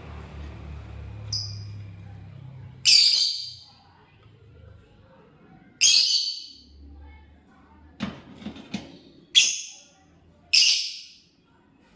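Lovebird calling: four loud, harsh, shrill calls a few seconds apart, after a short faint chirp near the start. A few light clicks fall between the later calls.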